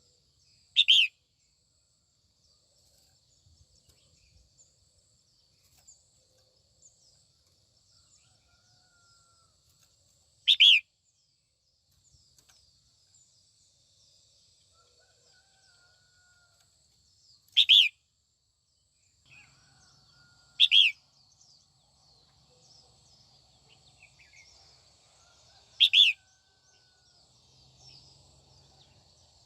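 Female red-whiskered bulbul calling, the call used to provoke male bulbuls: five short, loud calls spaced several seconds apart. Faint twittering of other birds runs underneath.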